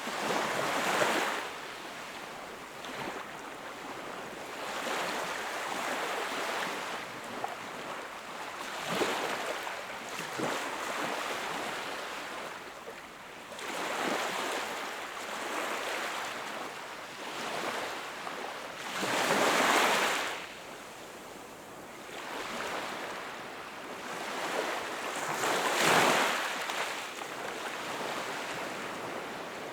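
Sea waves washing onto the shore, a steady surf hiss with a louder surge every few seconds as each wave breaks; the biggest come about a second in, around two-thirds of the way through and again a few seconds later.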